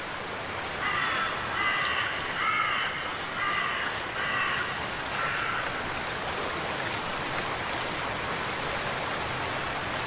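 A bird giving a series of harsh, cawing calls during the first half, over a steady hiss of water.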